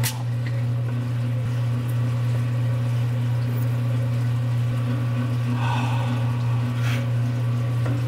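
A steady low hum, from the restored 1950s fridge's compressor running. A sharp click at the very start is the beer bottle's cap coming off.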